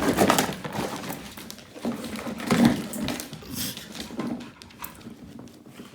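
A dog handling a birthday present it has just been given: irregular rustling, scratching and small knocks, with a louder patch about two and a half seconds in.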